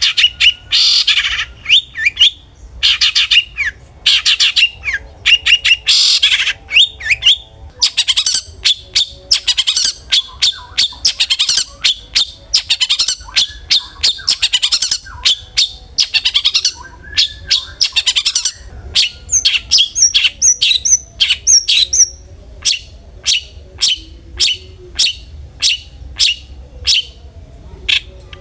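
Long-tailed shrike (cendet) calling hard and fast: dense sharp, harsh chattering notes, a run of high whistled notes partway through, then a steady series of short sharp calls at about two a second near the end.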